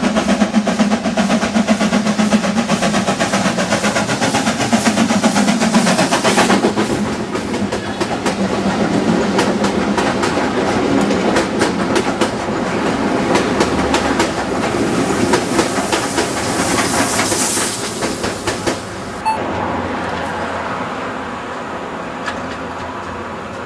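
Steam-hauled train running past, its wheels clicking rapidly over the rail joints. The sound gradually dies away, with a sudden drop about three-quarters of the way through.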